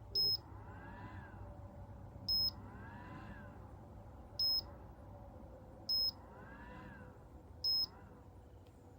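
Ultrasonic cool-mist humidifier beeping: five short, high electronic beeps about every one and a half to two seconds. It is the unit's alert while it won't stay on.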